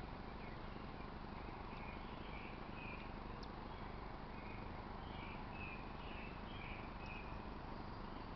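Outdoor nature ambience: a steady background hiss with scattered faint high chirps through the middle of the stretch.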